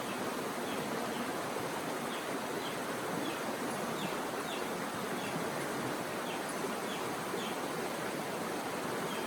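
Steady rushing of a forest stream, with faint, short, high bird chirps scattered over it.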